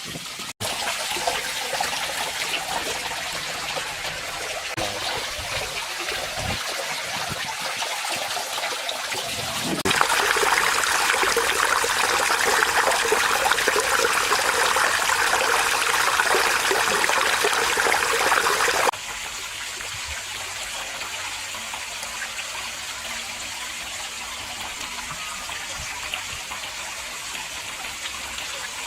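Water trickling and splashing steadily down a small garden fish-pond waterfall. It gets abruptly louder about ten seconds in and drops back abruptly a little before twenty seconds.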